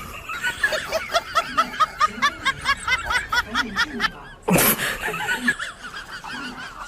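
A fast run of short snickering laugh sounds, about four a second, then a sudden loud burst of noise about four and a half seconds in.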